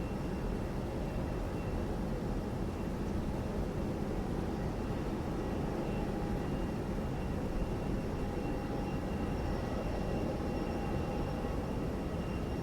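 Jet airliner engines running at a steady distant rumble, with a faint high whine over it.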